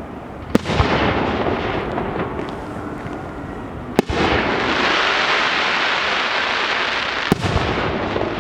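Aerial fireworks bursting: a sharp double bang about half a second in, another bang at about four seconds and a third near the end, each followed by several seconds of loud fizzing and crackling from the bursts.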